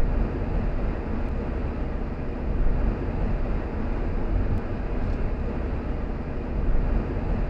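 Car driving along: steady road noise from the tyres and engine, heaviest in the low end, with some wind.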